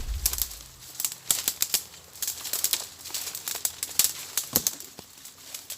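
Dry leaves and twigs crunching and crackling underfoot in irregular steps while walking through forest undergrowth. A low rumble sits under the first second.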